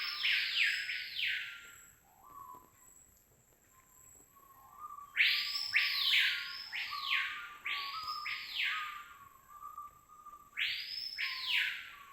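A bird calling in bouts of rapid, harsh arched notes, about two a second. The bouts stop for a few seconds and then start again. A faint steady high whine runs underneath.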